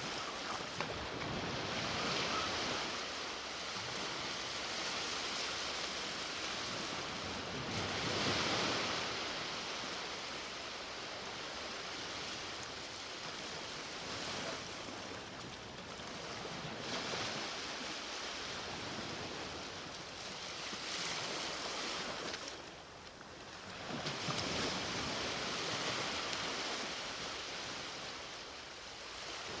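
Sea waves breaking and washing up the beach, in swells that rise and fall every six to eight seconds, with a brief lull about three quarters of the way through.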